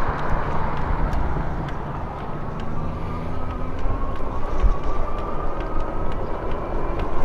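Wind rushing over the microphone of a moving e-bike, with a faint whine slowly rising in pitch from about two seconds in.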